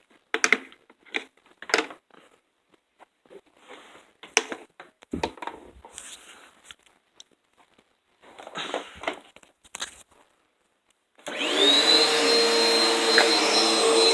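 Scattered knocks and handling rustles, then about eleven seconds in a vacuum cleaner switches on: its motor whine rises quickly and settles into a loud, steady run.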